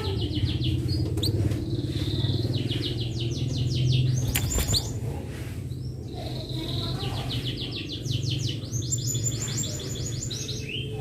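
Domestic canary singing: quick trills of rapidly repeated high notes in several phrases with short pauses between them, over a steady low hum.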